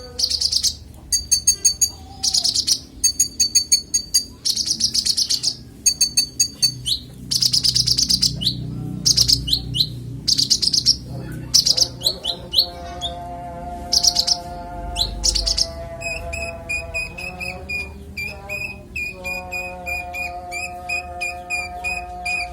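Kolibri ninja (brown-throated sunbird) singing clearly and without pause, pouring out its learned song phrases ('isian'). A fast string of high chirps and trills gives way about halfway through to a different phrase of rapid ticks over lower held notes.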